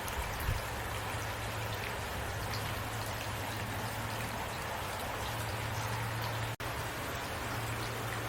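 Heavy rain falling steadily, with a steady low rumble under the hiss of the drops. The sound cuts out for an instant about six and a half seconds in.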